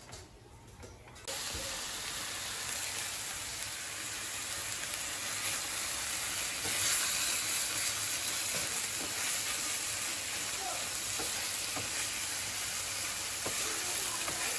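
Mushroom thoran (mushrooms with grated coconut) frying in a pan: a steady sizzle that starts suddenly about a second in, with a wooden spatula stirring through it near the end.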